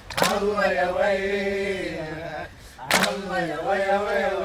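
A group of voices chanting in long, held phrases on a steady pitch, with a sharp loud attack at the start of each phrase; a new phrase begins about three seconds in after a brief pause.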